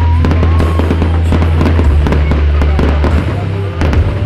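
Fireworks going off in a dense run of quick pops and crackles, over loud music with a steady deep bass.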